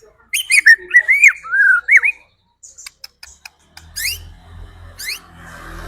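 White-rumped shama (murai batu) song: a burst of loud, rich whistled phrases gliding up and down, then after a short pause a few quick rising sweeps about once a second. A low hum comes in under the sweeps in the second half.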